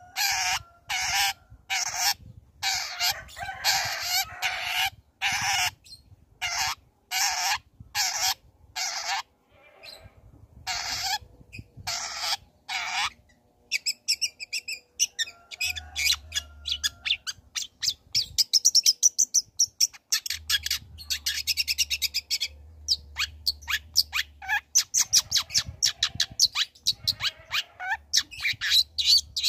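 Long-tailed shrike (cendet) singing: a run of harsh, rasping calls repeated in quick succession, then about halfway through a rapid, high-pitched chattering twitter.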